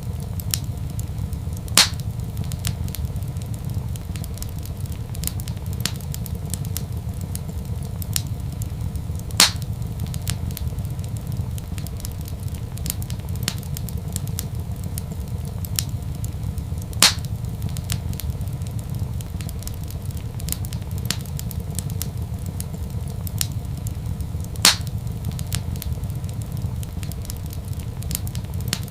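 Wood fire crackling in a fireplace over a steady low rumble, with many light ticks and four loud sharp pops evenly spaced about seven and a half seconds apart.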